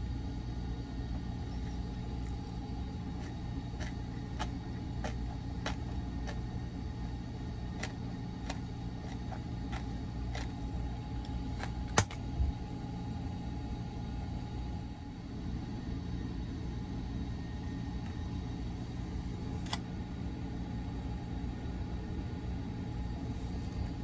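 Steady low rumble of the Sunrise Seto sleeper train, a 285 series electric train, running, heard from inside a compartment. Over it come a string of light clicks and one sharper, louder click about halfway.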